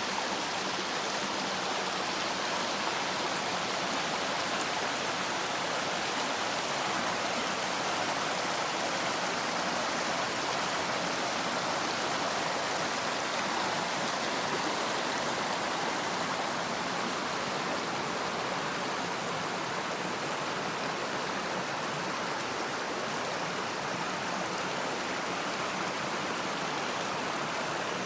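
A mountain stream flowing: a steady, even rush of water with no breaks.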